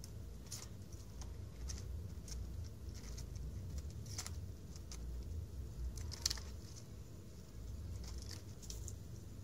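Kitten's claws scratching and catching on tree bark as it climbs: light, irregular scratches, the sharpest about six seconds in.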